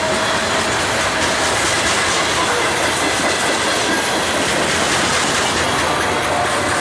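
Union Pacific freight train's cars rolling past, steel wheels clattering over the rail joints in a steady, loud rumble.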